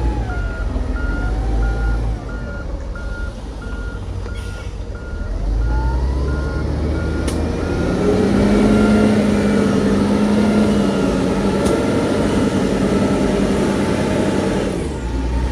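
Heavy diesel construction machine with its reversing alarm beeping about twice a second. The alarm stops about six seconds in; the engine then revs up and runs hard under load, easing off near the end.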